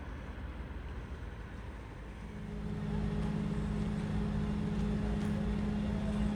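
Low rumbling of a large car ferry's machinery, joined about two seconds in by a steady low drone that grows louder and then holds.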